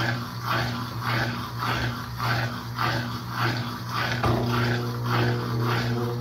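Brastemp Sexto Sentido 8 kg washing machine running mid-cycle: a steady motor hum under rhythmic swishes of water and laundry, about two a second. A few higher steady tones join about four seconds in.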